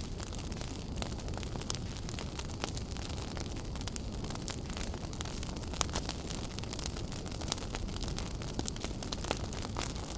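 Wood fire burning in a fireplace: a steady low rumble and hiss of the flames with frequent small crackles and a few louder pops.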